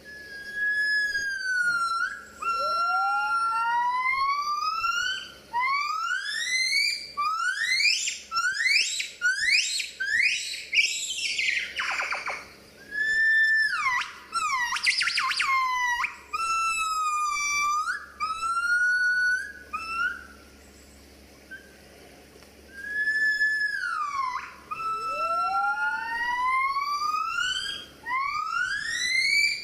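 Gibbon calling: a long series of clear whooping notes, each gliding upward in pitch, coming faster and climbing higher as the phrase builds. A pause of about three seconds comes about two-thirds of the way through, then the whoops start again.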